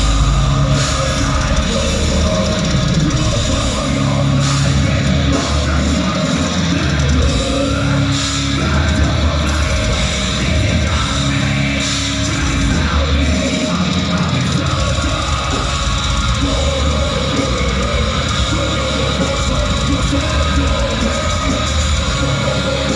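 Heavy metal band playing live at full volume, with a pounding drum kit under a dense, distorted wall of sound.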